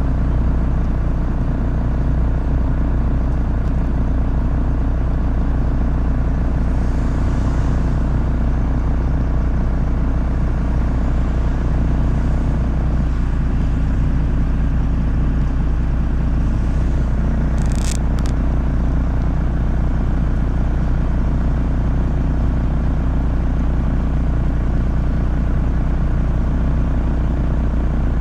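MAZ 103 city bus under way: a steady low drone of engine and road noise, with a brief sharp high-pitched squeak about eighteen seconds in.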